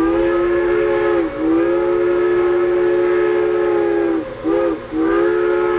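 Steam locomotive chime whistle sounding several notes at once. It gives a long blast, a second long blast, a short toot about four and a half seconds in, then another long blast.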